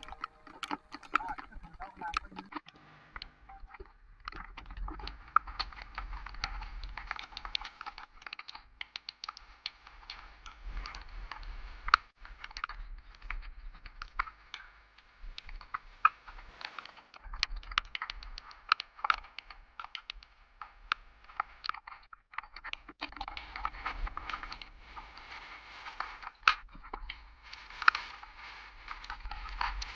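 Rain pattering and crackling irregularly against the microphone during a ride in heavy rain, with a low wind rumble coming and going.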